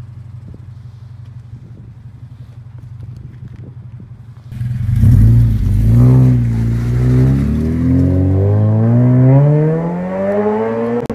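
A car engine idles with a steady low hum. About four and a half seconds in, a Toyota GT86's flat-four is heard accelerating hard away, its revs climbing, dipping briefly, then rising steadily and easing off near the end.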